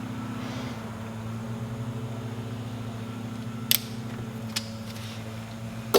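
A steady low mechanical hum, like a fan running, with two sharp clicks, one about three and a half seconds in and one about a second later.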